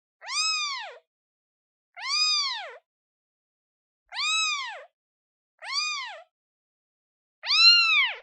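A day-old newborn kitten meowing five times, each call rising then falling in pitch, with silent gaps between: a kitten calling for its mother.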